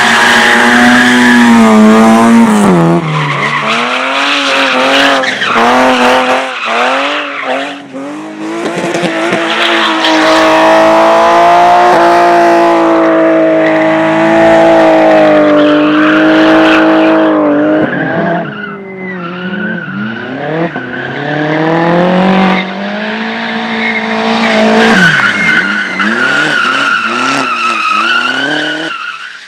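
Competition car being driven hard through a slalom course. The engine revs rise and fall again and again, holding high for several seconds midway, and the tyres squeal near the start and again toward the end.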